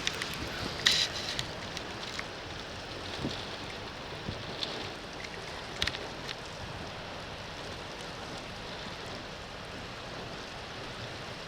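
Steady rain and wind noise, with a few sharp ticks about a second in and again near the six-second mark.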